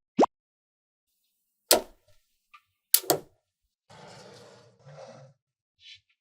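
Small magnetic balls snapping together in a few sharp clicks, a close double click about three seconds in, then a soft rattle as a cluster of balls is handled and rolled.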